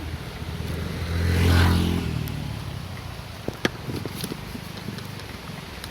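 A motor vehicle drives past close by, its engine and road noise swelling to the loudest point about a second and a half in, then fading away. A few sharp clicks follow about midway through.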